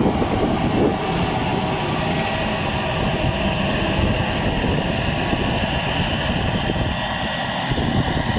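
Tractor engine working steadily as it pulls a seed drill across the field, with wind buffeting the microphone.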